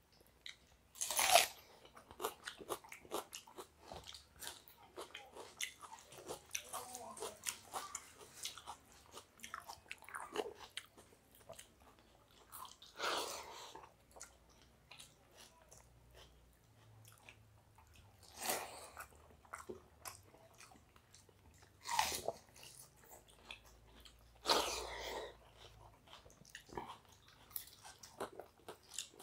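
Chewing of watery rice eaten by hand, with many small mouth clicks and about five louder crunchy bites spread through, of raw onion and stuffed fried bitter gourd.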